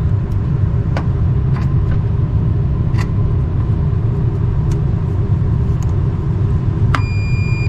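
A steady low rumble with a few light clicks, then near the end a short, steady high beep from a multimeter's continuity tester on a ground connection: the beep shows a good ground.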